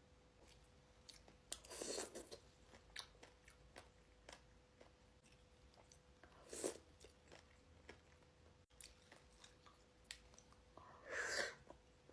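Close-miked chewing of fresh fruit: soft wet clicks and smacks throughout, with three louder bites about two, six and a half, and eleven seconds in.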